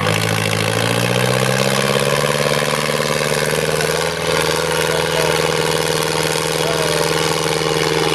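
IFA W50 truck's diesel engine rising in pitch over the first two seconds, then running at steady revs, with a brief dip about four seconds in.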